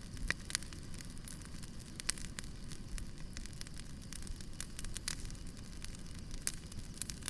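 Campfire burning, crackling with frequent irregular pops over a low steady rumble of the flames; a few louder pops stand out, one just after the start, one about two seconds in and one near the end.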